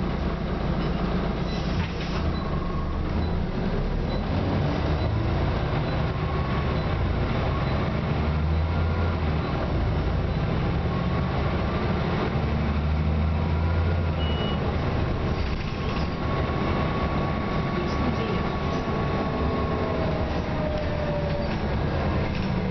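Scania OmniCity diesel bus running on the move, a steady low engine sound with faint whines that rise and fall in pitch as it goes.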